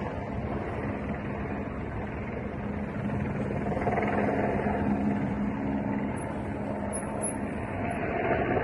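A vehicle engine running steadily with a low hum over outdoor rumble, growing somewhat louder about four seconds in.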